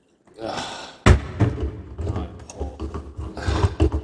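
Knocking and clattering of the espresso machine being handled during refilling: a loud knock about a second in, then smaller knocks and rustling.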